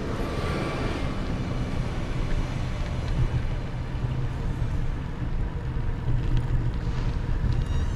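Steady low rumble of wind buffeting and rolling noise on a camera carried on a moving bicycle.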